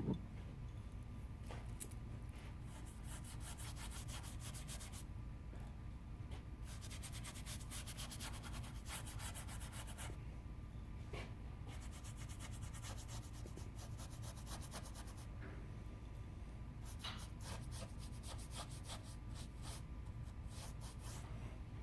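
A thump, then four bouts of rapid scratching on wood, each lasting a few seconds, with short pauses between them and a steady low hum underneath.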